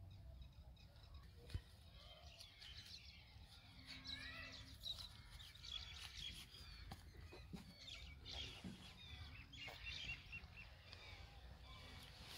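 Faint outdoor birdsong: small birds chirping and twittering over a steady low rumble, with one sharp click about a second and a half in.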